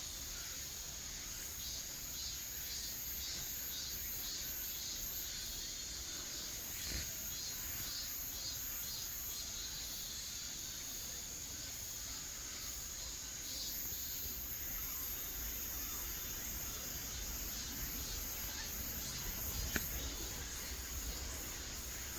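Insects chirping outdoors: a steady high-pitched trill with regular pulsing chirps, about two a second, over it.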